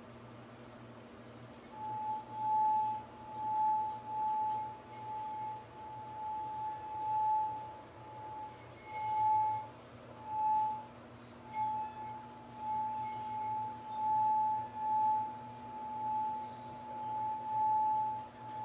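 Wine glass singing as its rim is rubbed: one steady high tone that starts about two seconds in and swells and fades every second or so.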